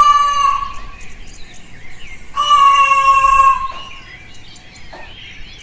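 Cockatoo calls: two long, steady, drawn-out screeches, the first fading about half a second in and the second a couple of seconds later, with faint chirping of other birds in the background.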